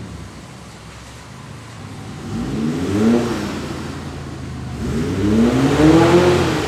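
Nissan R32 Skyline GT-R's RB26DETT twin-turbo inline-six idling through a freshly fitted Tomei header, test pipe and Expreme Ti titanium exhaust, then blipped twice. Each rev rises and falls in pitch, and the second is longer and louder.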